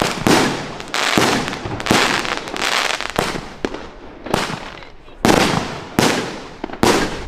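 Fireworks going off in quick succession: a loud bang roughly every second, each followed by a fading, crackling tail.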